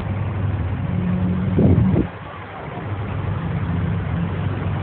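A vehicle engine idling with a steady low hum. About a second and a half in there is a brief louder rush that cuts off suddenly at two seconds.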